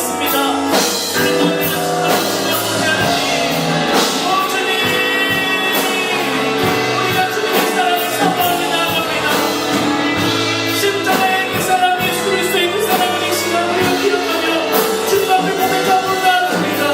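Church worship music: a band with drums playing while voices sing together.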